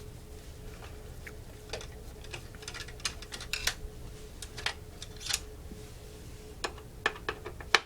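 Small sharp clicks and taps at irregular intervals as a Torx screwdriver works the screws out of an Xbox 360's metal chassis, the sharpest click near the end. A faint steady hum runs underneath.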